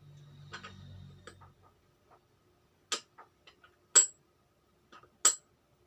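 Metal engine parts and tools clinking as they are handled, a few sharp separate clinks about a second apart, while the fit of a freshly bored motorcycle cylinder is checked. A brief low hum sounds at the start.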